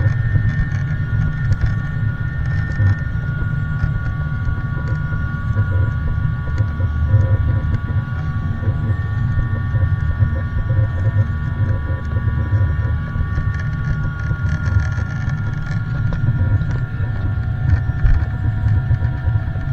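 Airliner jet engines heard from inside the passenger cabin: a loud, steady deep rumble with several steady whining tones over it.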